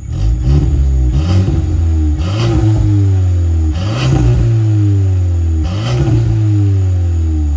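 VW Mk8 GTI's turbocharged 2.0-litre four-cylinder revved repeatedly through an XForce valved catback and catless downpipe, about four blips. On each one the pitch jumps up quickly and falls away slowly, with sharp cracks near the peaks.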